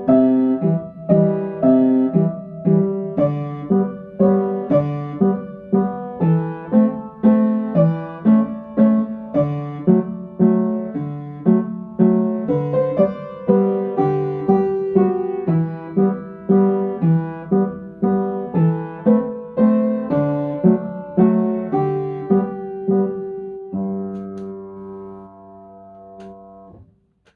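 Piano playing a simple song in 3/4 time, a left-hand chord pattern under the melody. It ends on a held final chord that rings and fades out near the end.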